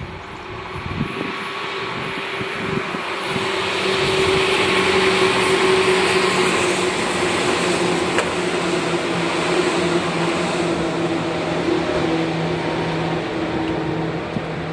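Seibu Sayama Line electric train passing close by. The running noise builds over the first few seconds, stays loud through the middle and eases slightly near the end, with a steady hum underneath.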